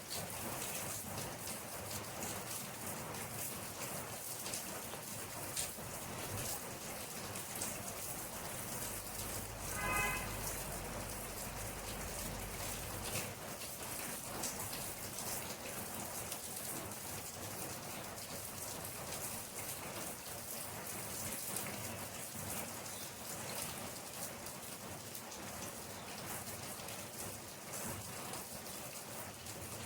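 Steady rain falling, the patter of many individual drops hitting a surface. About a third of the way in, a brief higher-pitched sound briefly stands out over the rain.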